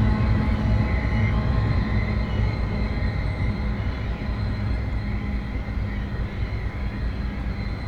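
Loaded coal train rolling past: a steady heavy rumble of wagons on the rails with a steady low engine tone, easing off slightly as it goes.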